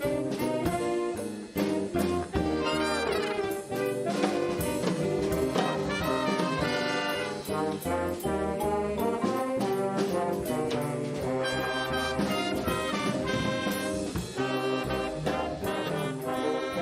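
Student band playing a brass-led piece, trombones and trumpets prominent, over a steady drum beat.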